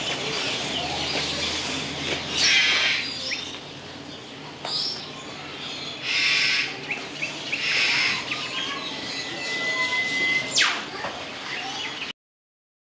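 Birds calling: several short, harsh squawks over chirping, with one held whistle near the end. The sound cuts off suddenly shortly before the end.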